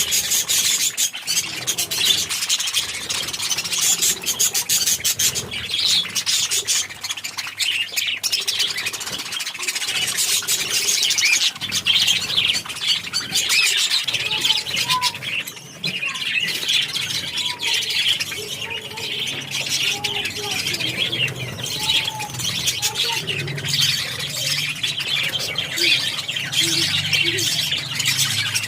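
Many birds chirping and chattering at once, a continuous dense stream of rapid high-pitched calls with occasional squawks.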